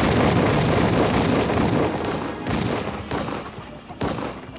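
Action-scene sound effects over background music: a loud boom with a rumble at the start that slowly dies away, followed by a few sharp impacts near the end.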